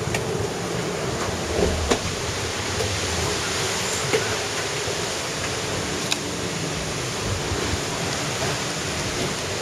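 Steady rush of sea and wind around an IMOCA racing yacht under way, with a few sharp knocks.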